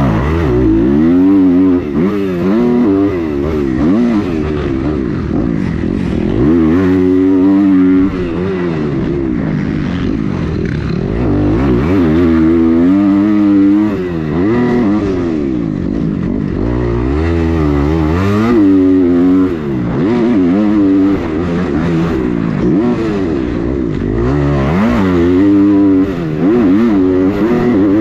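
Motocross dirt bike engine being ridden hard, revving up through the gears and backing off, over and over.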